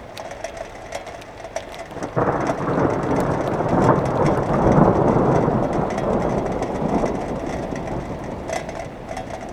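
Thunder: a sudden crack about two seconds in that rolls on loudly for a few seconds and slowly dies away, over falling rain.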